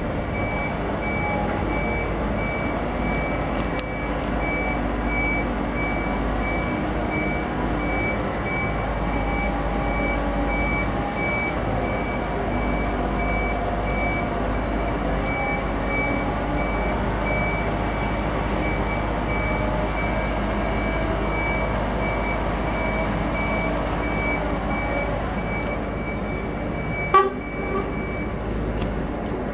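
Heavy vehicle's reversing alarm beeping steadily at one pitch over a running diesel engine. A sharp knock sounds near the end, just before the beeping stops.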